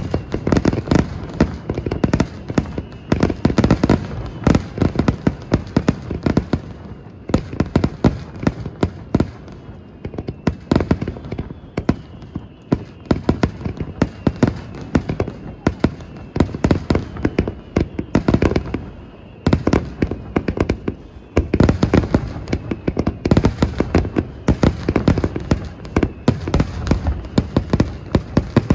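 Fireworks display: a dense, continuous barrage of bangs and crackling, with a few faint falling whistles.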